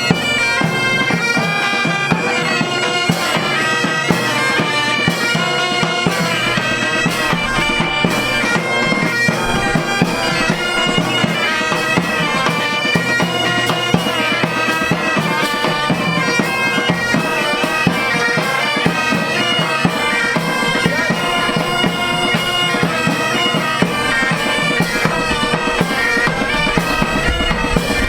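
Bagpipe band playing a tune over a steady drone, with regular drumbeats.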